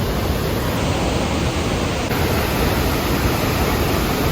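Montmorency Falls' water rushing: a steady, loud, unbroken roar of falling water.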